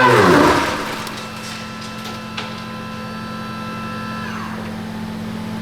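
CNC mill face milling cold rolled steel with an indexable-insert face mill at a heavy 1/8-inch-deep, 760-inches-a-minute cut. The loud cutting whine falls away in pitch as the cut ends in the first half-second, leaving the machine's steady hum with a few held tones. There is a single tick about two and a half seconds in, and the tones slide down about four seconds in.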